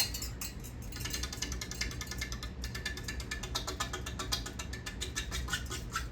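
Hunter low-profile ceiling fan running: a fast, even clicking rattle over a low steady hum.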